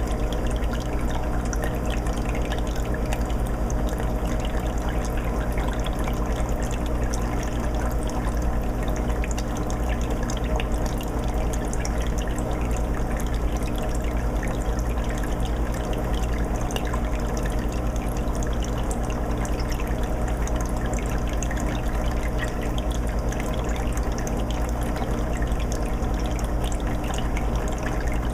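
Aquarium water filter running in a 20-gallon fish tank: steady trickling, bubbling water with a steady low hum underneath.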